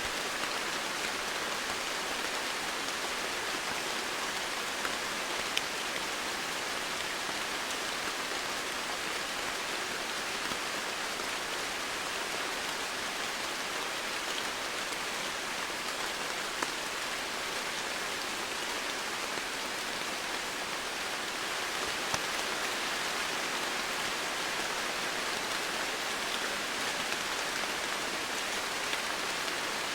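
Steady heavy rain falling, an even hiss with occasional distinct drops ticking through it.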